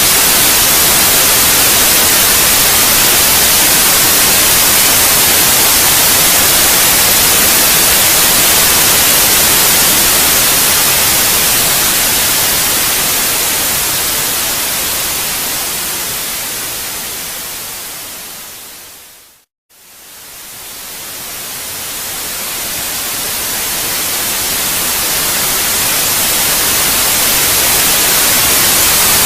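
Steady white-noise hiss, bright and even across the highs, that slowly fades out to a moment of silence about two-thirds of the way through and then fades back in.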